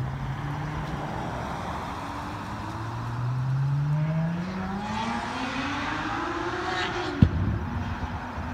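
Car engine accelerating hard away, its note climbing steadily for about five seconds, then a single sharp crack as the revs drop.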